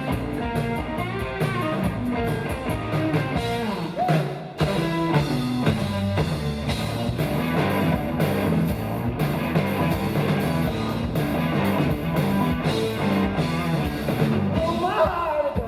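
Live rock band playing an instrumental passage: electric guitar over bass and drum kit, with a brief dip in level about four seconds in. A singing voice comes in near the end.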